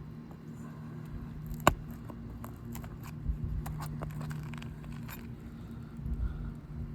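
A small hand tool clicking and scraping against asphalt shingles and roofing nails as the fasteners under a shingle are worked loose, with one sharp, much louder click near two seconds in. A steady low hum runs underneath.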